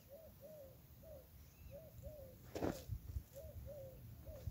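A bird calling over and over in short rising-and-falling notes, mostly in pairs. A single brief, louder handling noise comes about two and a half seconds in, as clothes are put into the wash bucket.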